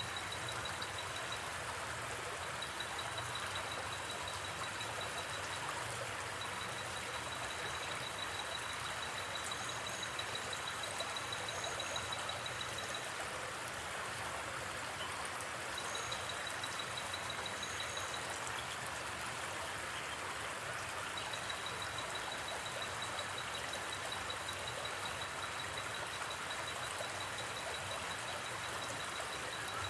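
Steady rushing of a gently flowing river, with a high, rapidly pulsed insect trill that comes in long runs and breaks off several times, and a few faint higher chirps.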